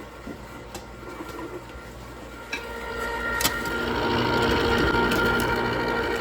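Small electric motor of an ice cream maker running with a steady whirring hum, packed with snow and ice to freeze the mix. A couple of sharp clicks come about halfway through, and the hum grows louder from then on.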